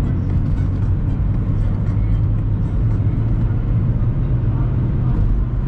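Car being driven: steady engine and road rumble.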